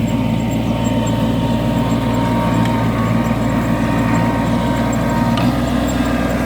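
Kubota A211N compact tractor's three-cylinder diesel engine running steadily while pulling a plough.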